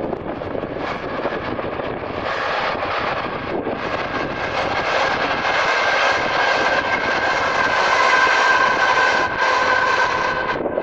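Diesel locomotive of a passing train, its engine running with a steady high whine that grows louder, peaks about eight seconds in, then eases, with wind buffeting the microphone.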